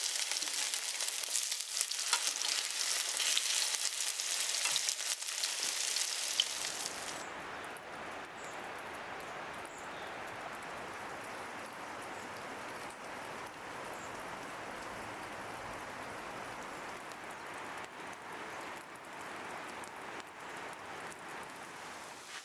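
Potato pancakes frying in oil in a cast-iron pan: a loud, bright sizzle for the first six seconds or so, then a softer, lower, steady frying hiss.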